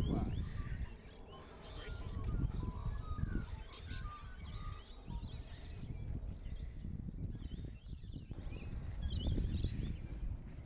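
Wild birds chirping and calling in short, scattered notes over a steady low rumble.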